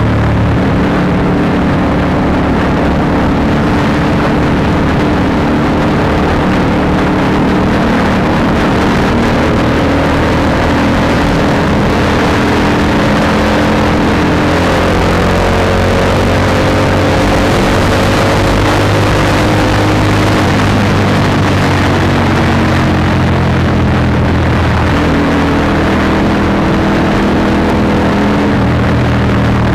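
Honda CBR150R's single-cylinder engine through an Akrapovic exhaust, running under way, its pitch rising and falling as the rider opens and eases the throttle.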